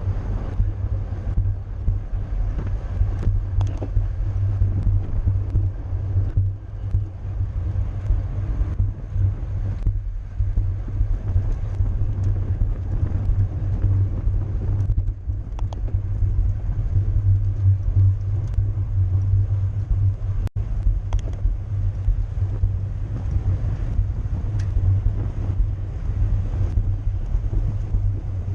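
Wind buffeting the microphone of a camera moving at riding speed, a steady low rumble.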